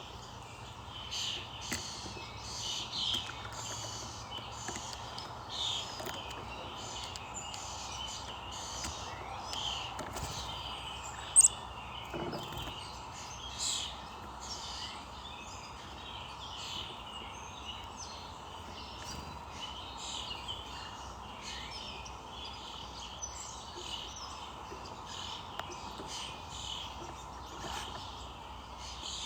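Small birds chirping and calling repeatedly in quick, short notes over a steady background hiss, with one sharper, louder note about eleven seconds in.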